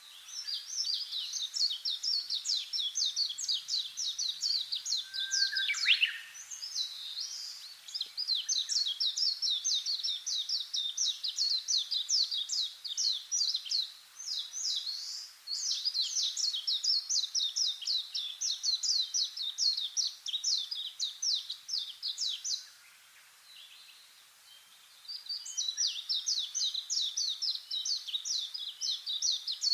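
A small bird singing four long runs of rapid, high-pitched repeated notes, each several seconds long, with short pauses between them, over faint outdoor hiss.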